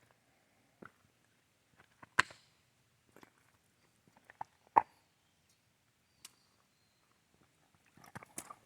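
Scattered short clicks and knocks, irregularly spaced. The sharpest come about two seconds in and just under five seconds in, and a few quicker taps come near the end.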